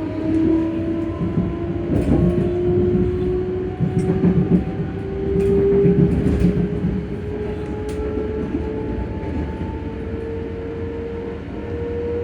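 ScotRail Class 385 electric train's traction motors humming, the whine rising slowly and steadily in pitch as the train gathers speed, over the rumble of the running gear. A few sharp clicks from the wheels on the track stand out about two, four and eight seconds in.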